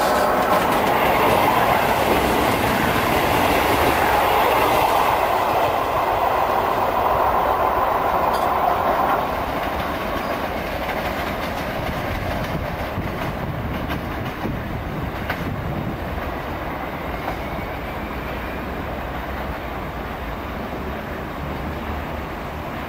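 Third-rail electric multiple-unit train running past, its wheels clattering over rail joints. The sound is loudest for about the first nine seconds, then falls away to a steadier, quieter train noise.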